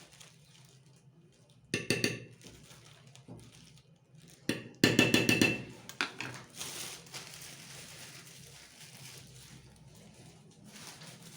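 A spoon clinking and scraping against a bowl as spoonfuls of crème pâtissière are added, in two quick runs of rapid taps about two seconds and five seconds in, then softer scraping.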